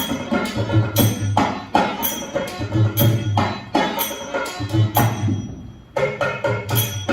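Traditional Rajasthani folk percussion music: rapid sharp strikes over a deep drum beat that comes about every two seconds. The playing drops away briefly a little after five seconds in, then comes back in.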